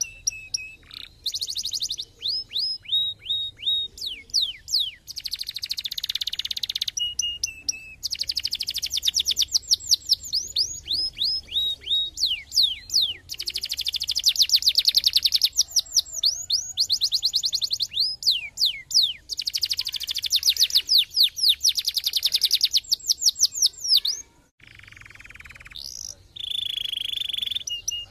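Domestic canary singing a long, loud song of rapid buzzy trills and rolls, alternating with runs of quick down-sweeping notes. The song breaks off briefly about 24 seconds in, then starts again.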